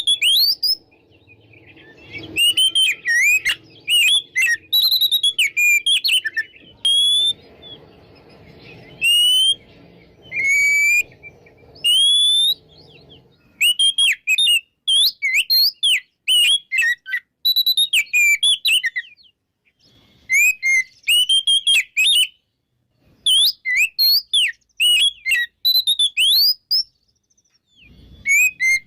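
Oriental magpie-robin singing freely and continuously: a fast run of varied, clear whistled phrases, rising and falling, with short pauses between them.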